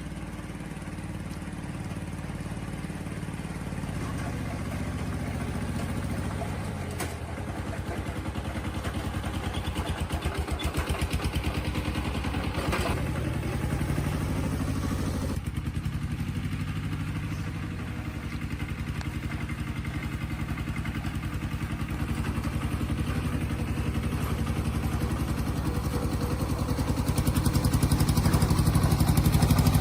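An engine running steadily with a fast pulsing beat, its speed shifting up and down a few times and getting louder near the end.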